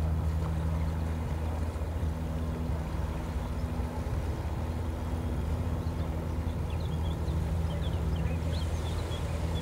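Amphicar's rear-mounted four-cylinder engine running steadily as the car swims, a low even drone. A few faint high chirps come in over the last few seconds.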